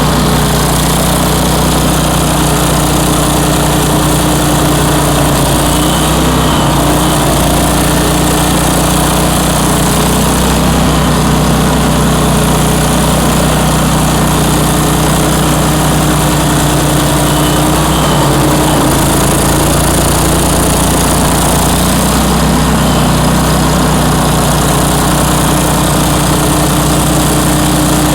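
Bandit ZT1844 stump grinder's engine running steadily, with slight shifts in tone every few seconds.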